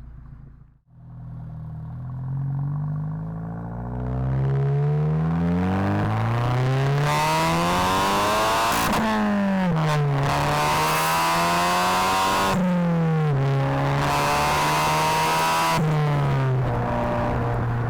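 VW Mk7 GTI's turbocharged 2.0-litre four-cylinder running through a 3-inch downpipe and non-valved cat-back exhaust, accelerating with a long rising pitch. The pitch then drops suddenly several times as gears change, with a hiss while on throttle, before it settles to a steady drone.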